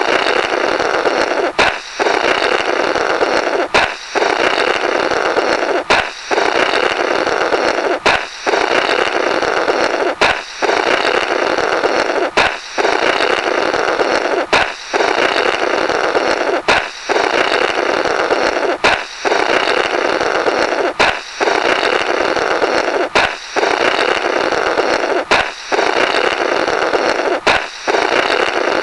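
Cartoon "blorrrt" sound effect looped over and over: a balloon pops, then air is blown through the burst rubber in a flapping, raspberry-like rush. It repeats about every two seconds.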